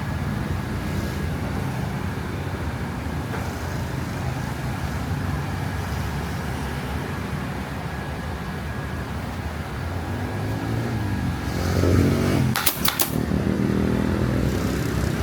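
Motorbike engines running steadily, swelling louder near the end with a rising and falling engine note and a few sharp clicks.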